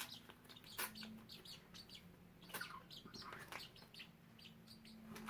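Pet budgies chirping and twittering softly, with short high chirps scattered throughout and a few faint clicks among them.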